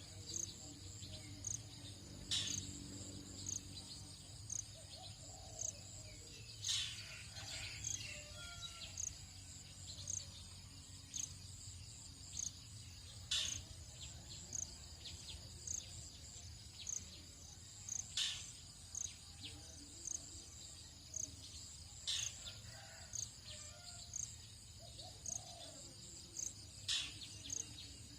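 Dawn insect chorus: a steady high buzz of crickets with a chirp pulsing a little more than once a second. Short sharp high calls break in about half a dozen times, with faint bird calls in between.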